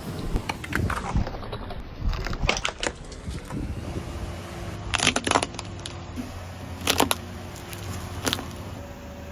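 Food items crunching and cracking as they are crushed under a car tyre: a run of crackling snaps, then several sharper, louder cracks about five, seven and eight seconds in, over a low steady hum.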